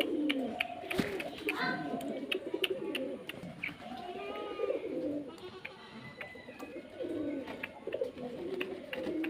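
Several domestic pigeons cooing at once, with overlapping low coos throughout and frequent short sharp clicks and taps mixed in.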